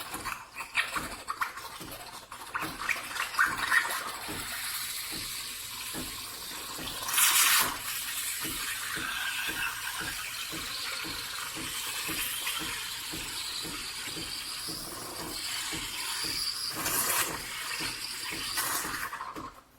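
Espresso machine running: a buzzing pump with water hissing through, steady throughout, with a louder hissing burst about seven seconds in and another near the end.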